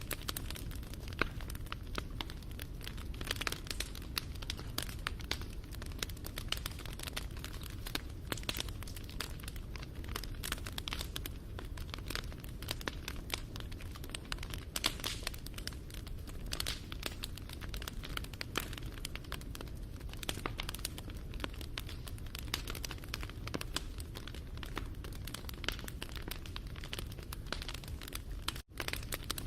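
Wood fire burning with dense, irregular crackling and popping over a low steady rumble of flames. The sound cuts out for an instant near the end.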